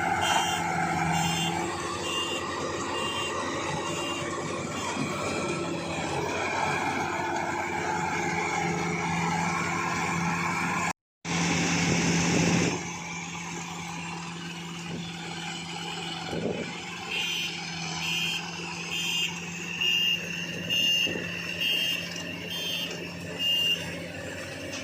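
Rice combine harvester's engine running steadily. In the second half a high-pitched reversing or warning beeper sounds about once a second. The sound cuts out for a moment midway.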